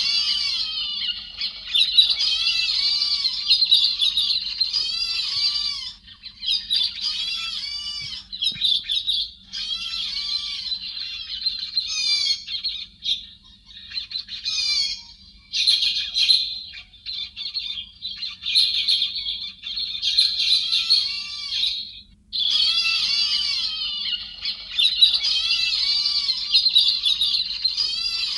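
A recorded bird (Vietnamese 'chim héc xoan', a thrush-type songbird) calling in long, dense runs of quick chattering, squawky notes, with short breaks between runs. A faint steady hum sits underneath.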